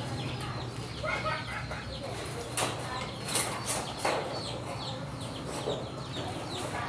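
Chickens clucking, with a few sharp clicks or taps about two and a half to four seconds in.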